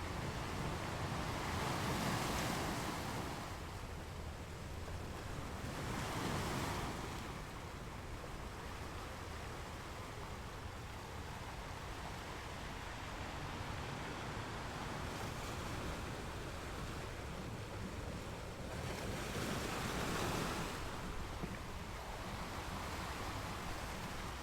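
Ocean waves washing onto a beach: a steady rush of surf that swells louder three times, each surge rising and falling over a couple of seconds.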